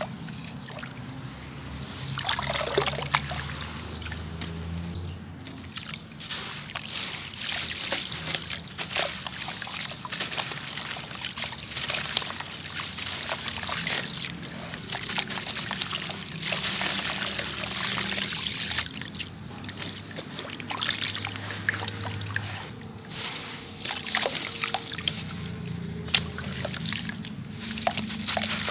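Grainy black sand-and-cement bowls crumbling in water: a continuous fizzing trickle of disintegrating grit, with sloshing, small splashes and many short crackles as crumbs break away.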